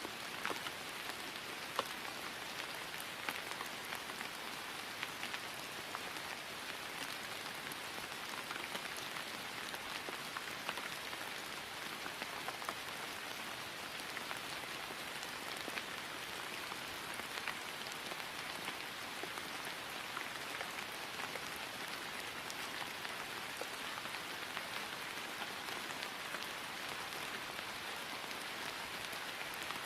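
Steady rain falling on grass: an even patter, with many individual drops ticking through it.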